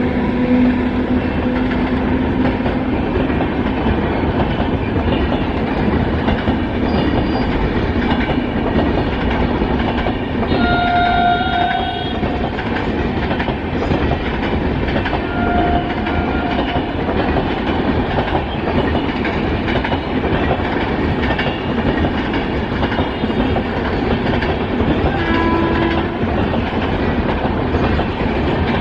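Train rolling past at close range: steady rumble of wheels on the rails with clickety-clack over the rail joints, broken by a few short high tones.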